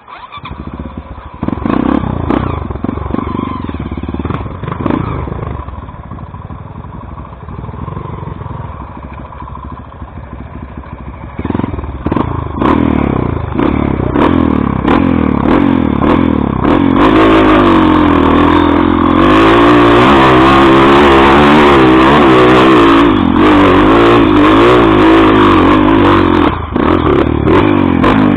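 Off-road trail motorcycle engine revving hard, its pitch rising and falling again and again as the throttle is worked, loudest in the second half.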